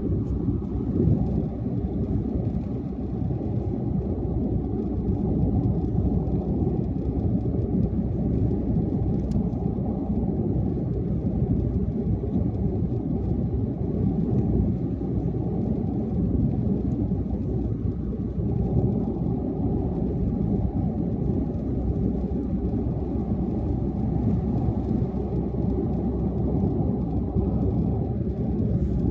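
Car driving at highway speed: a steady low rumble of tyre and engine noise.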